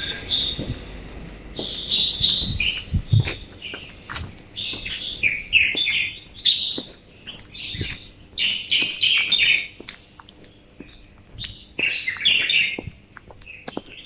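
Songbirds chirping and singing in the early morning, a busy run of short, high notes in quick bursts that thins out briefly a little after the middle before picking up again.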